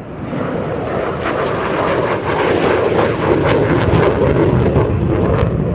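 Saab AJS 37 Viggen jet passing in a display flyby, its Volvo RM8 turbofan engine roaring. The noise builds to its loudest about three to five seconds in, with sharp crackles over it, then begins to fade.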